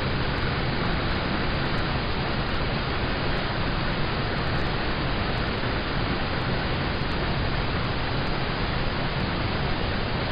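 Steady rain on a car, heard from inside the cabin: an even, continuous hiss.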